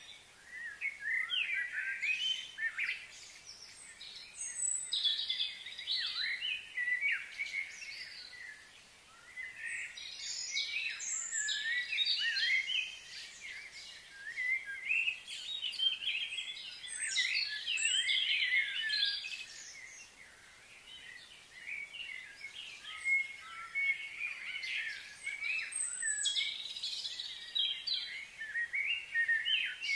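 Many small songbirds chirping and twittering in dense, overlapping calls that swell and fade in waves every few seconds.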